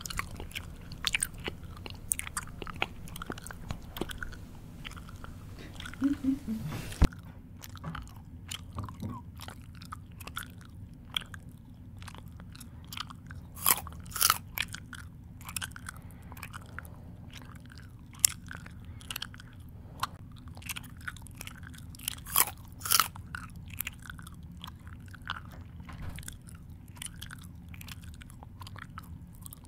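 Close-miked mouth chewing: irregular crisp crunches and wet smacks, some louder than others, over a faint steady hum.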